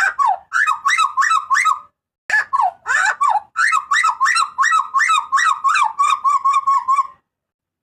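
Butcherbird (the 'jagal papua') giving loud, harsh calls in rapid runs of short notes, two bursts with a brief pause about two seconds in; the second run settles into a quick, even string of same-pitched notes before stopping.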